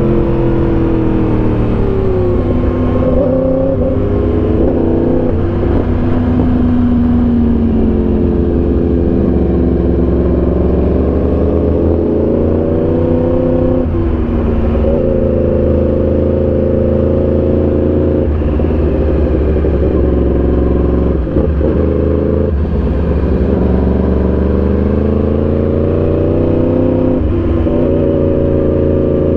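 Motorcycle engine running under load, its pitch climbing and falling repeatedly as it accelerates, shifts gear and slows.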